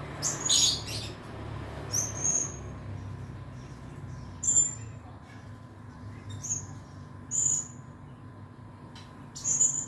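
Blue-crowned hanging parrot (serindit) giving short, shrill, very high-pitched calls, about six of them at irregular intervals, over a faint steady hum.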